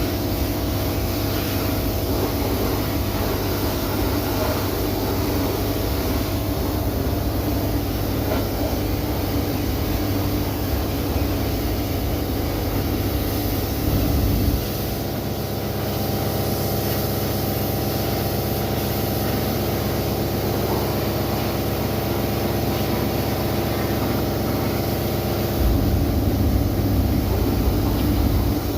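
Pressure washer running steadily, with a louder stretch about halfway through and again near the end.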